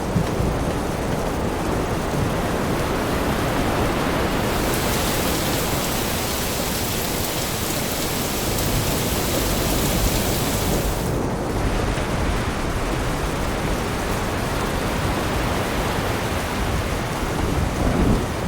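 Steady heavy rain with a low rumble of thunder underneath. A brighter, hissier layer of rain comes in about four seconds in and cuts off suddenly a few seconds past the middle.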